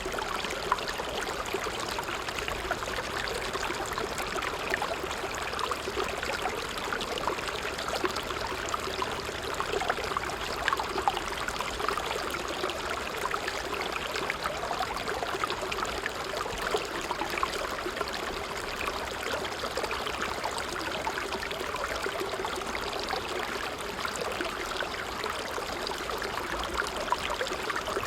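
A creek running steadily, its water babbling and trickling in a constant, busy rush with no pauses.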